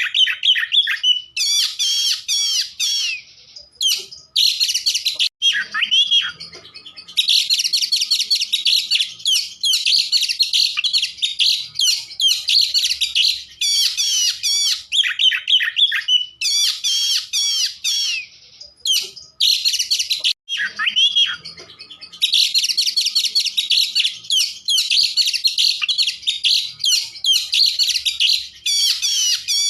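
Oriental magpie-robin (kacer) singing a fast, varied song of chirps, trills and whistles in long unbroken bursts, with two short lulls.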